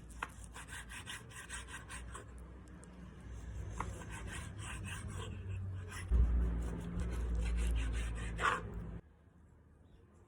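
Repeated rubbing and scraping strokes, like a hand or tool working against wood. A louder low rumble joins partway through, and the sound cuts off abruptly about nine seconds in.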